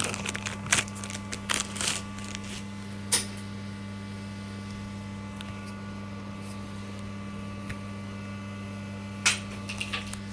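Steady low mains hum under scattered clicks and rustles of hands handling a new shower cartridge and its packaging. The clicks are busiest in the first three seconds, with one louder click near the end.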